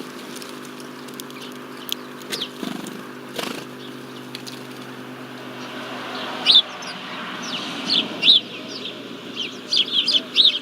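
Small birds at a bird feeder: short high chirps repeated many times from about six seconds in, with a few brief flutters or taps earlier, over a steady low hum.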